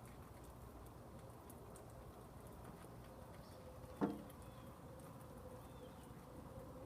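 Faint, steady rain patter with one short, sharp knock about four seconds in.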